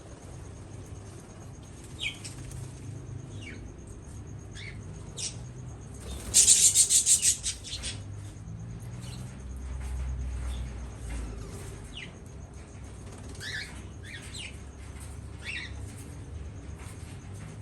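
Small aviary birds giving short, scattered chirps, with a loud flurry of wing flapping about six seconds in that lasts about a second and a half.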